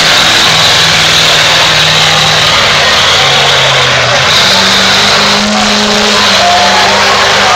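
Street-legal diesel pickup truck engine running hard under full load while pulling a weight-transfer sled, very loud; its pitch sags slightly, then steps up higher about four seconds in.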